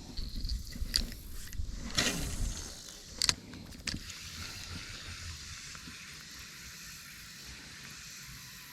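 Clicks, knocks and scrapes of fishing gear handled in a kayak during the first four seconds, the loudest about two and three seconds in, then a steady hiss.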